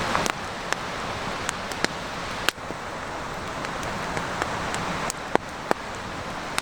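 Wood campfire crackling: a steady hiss with scattered sharp pops, the loudest about two and a half seconds in.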